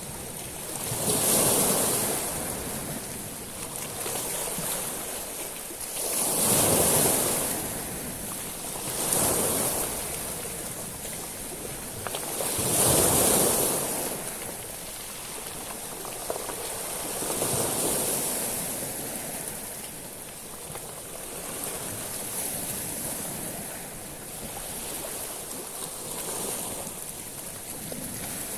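Sea waves breaking and washing over a beach of small stones. Each wave is a rush of surf with a high hiss that swells and fades, the bigger ones coming every four to six seconds and the later ones softer.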